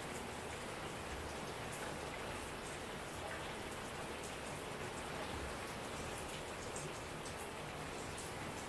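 Steady rain falling, a continuous hiss scattered with many small ticks of individual drops striking surfaces.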